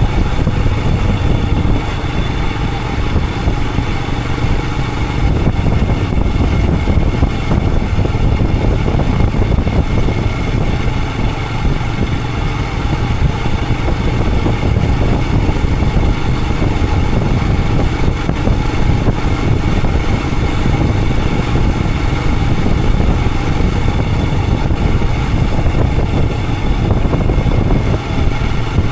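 Royal Enfield Himalayan 411's single-cylinder engine running steadily as the motorcycle rides along.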